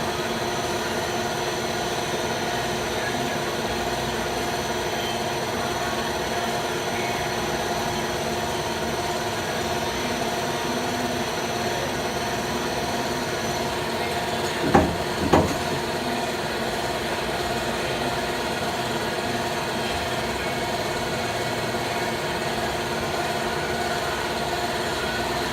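CNC lathe running steadily, a constant hum with several steady whining tones, one high whine stopping about 14 seconds in. Two sharp knocks about half a second apart come a little after.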